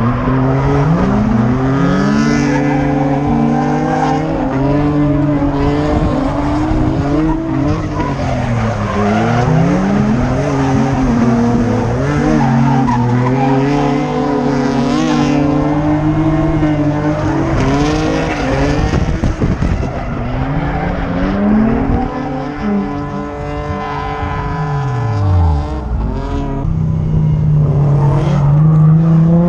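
Drift car engine revving up and down over and over as the car is thrown through slides, with tyres squealing and skidding on the track.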